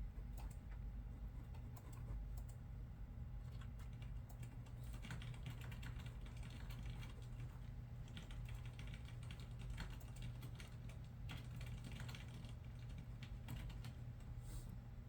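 Typing on a computer keyboard: quick runs of key clicks, sparse at first and densest from about five to thirteen seconds in, over a steady low hum.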